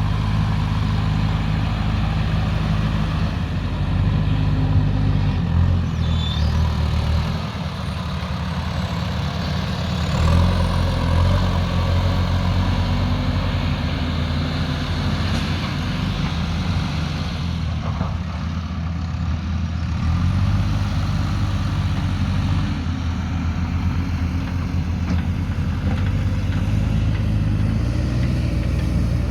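Diesel engines of heavy earthmoving machinery, a backhoe loader and an excavator, running under working load. The engine note rises and falls as the load changes, swelling about four and again about ten seconds in.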